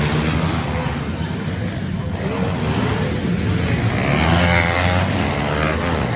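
Pit bike engines revving up and down as they race, with a rising rev about four seconds in.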